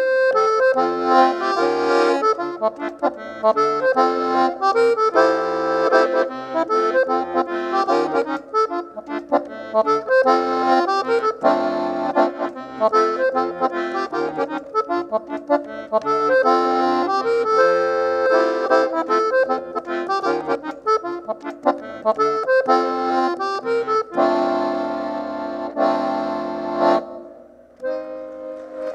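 Accordion (sanfona) playing an instrumental passage: reedy melody and chords over a rhythmic bass line. Near the end it closes on long held chords and a short final chord.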